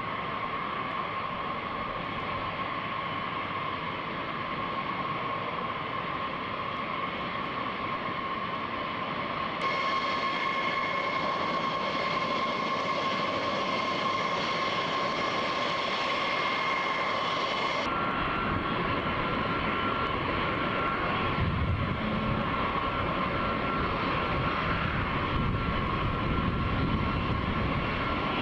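Aircraft engines running steadily, a rushing noise with a high whine. The sound changes abruptly twice, about ten and eighteen seconds in, as if cut between different recordings.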